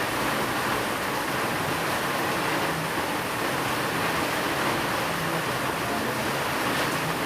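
Steady rain falling, an even continuous hiss with no thunder or single drops standing out.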